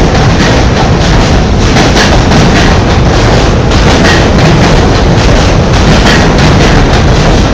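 R46 subway train running at speed, a loud steady rumble and rail noise with repeated clacks of the wheels over rail joints.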